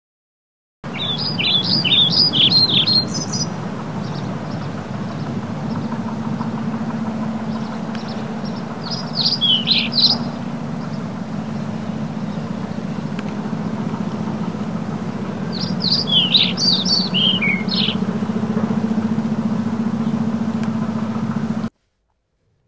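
A songbird singing in three short bursts of quick, high chirping phrases over a steady low hum. The whole track starts and cuts off abruptly.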